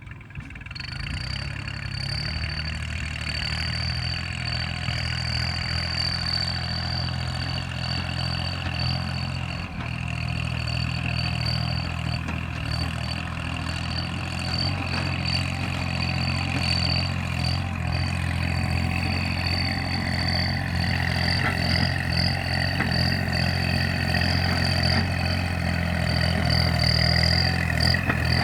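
Tractor diesel engine running steadily through a whistle-insert exhaust pipe, which adds a continuous high-pitched whistle over the low engine note. The engine gets a little louder near the end.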